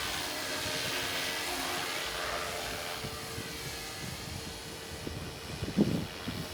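Radio-controlled model airplane's motor whining as the plane passes in flight, loudest in the first couple of seconds and then fading away. A few dull bumps near the end.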